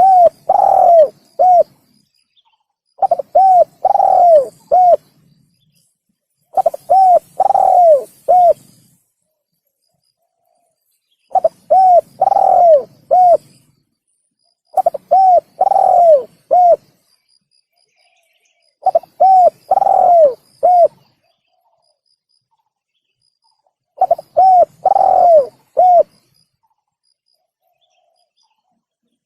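Spotted dove (tekukur) cooing, a recorded lure call: seven near-identical phrases of four or five short, falling coo notes, one phrase about every four seconds with silence between.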